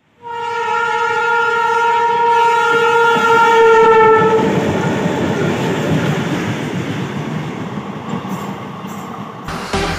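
Electric locomotive horn sounding one long blast of about four seconds as the train approaches at speed. It is followed by the loud, steady rush and rattle of the train running past close by.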